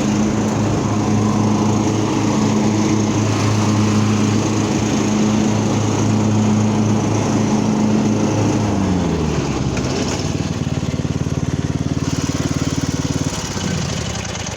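18 hp single-cylinder Kohler 5400 series engine of a Cub Cadet XT1 riding lawn tractor running steadily. About two-thirds of the way through the engine speed drops, and it runs slower before dying away at the end.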